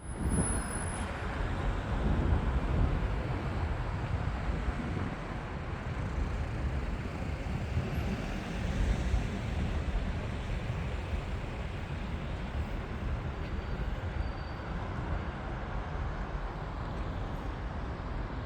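Steady city traffic noise, a continuous low rumble of vehicles.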